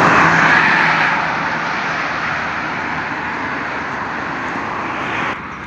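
A vehicle passing on the road, a steady rushing noise that is loudest about a second in, slowly fades, and drops off suddenly near the end.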